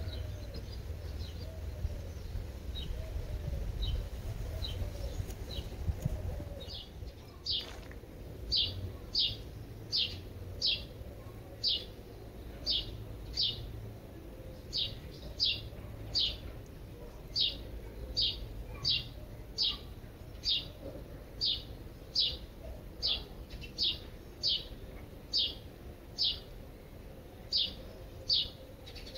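A small bird calling one short, high note over and over, about one and a half times a second, faint at first and louder from about seven seconds in, over a low steady outdoor rumble.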